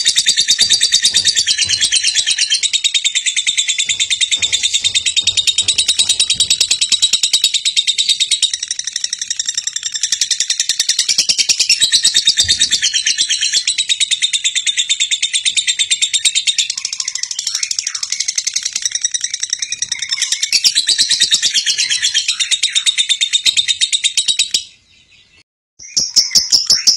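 High-pitched chirping in a fast, steady pulse that runs on without pause, breaking off for about a second near the end and then starting again.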